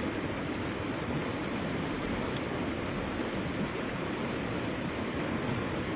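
Steady, even rushing noise with no distinct tones or events.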